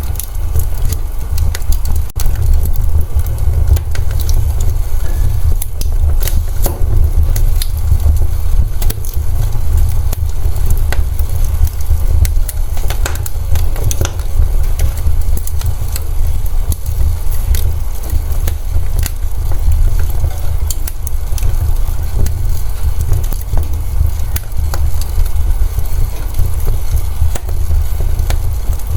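Wood fire in a fireplace crackling, with frequent sharp pops and snaps at irregular intervals over a steady low rumble of the flames.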